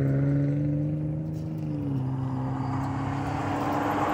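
Engine of a passing motor vehicle, a steady droning tone over road noise that drops slightly in pitch about two seconds in as it goes by.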